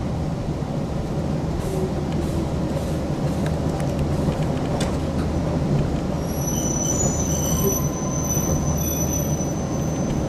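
Toyama Chiho Railway electric train running, heard from inside the car: a steady low rumble with a few clicks over the rail joints, and from about six seconds in a high, steady squeal from the wheels on the rails.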